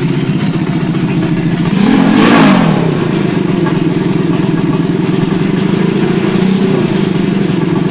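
Motorcycle engine enlarged from 150 to 200 cc idling, with a quick rev about two seconds in and a smaller blip of the throttle near the end.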